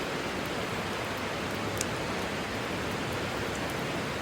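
Steady rushing outdoor background noise, even and unbroken, with a single faint tick about two seconds in.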